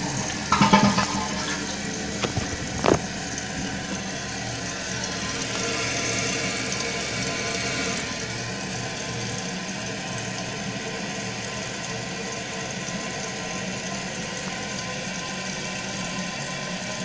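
Kohler Wellworth toilet flushing with its tank lid off: a steady rush of water as the bowl empties and the tank refills, with a few sharp knocks in the first three seconds.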